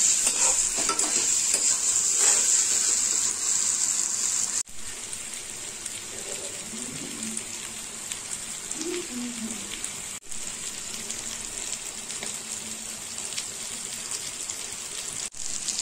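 Boiled potatoes and spice paste frying in oil in a steel kadai, sizzling and crackling steadily, with a spatula scraping and stirring through the pan for the first four or five seconds. After that the sizzle carries on more quietly.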